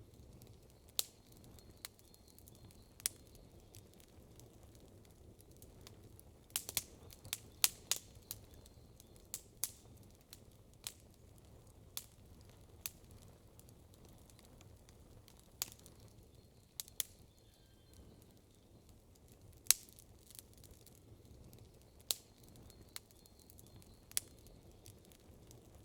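Wood campfire crackling: irregular sharp pops and snaps a second or two apart, with a quick flurry of pops about seven seconds in, over a faint low rumble.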